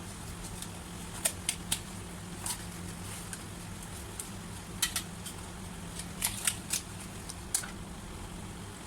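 Scattered sharp clicks and knocks of a chicken being cut into pieces, in small clusters, over a steady low hum.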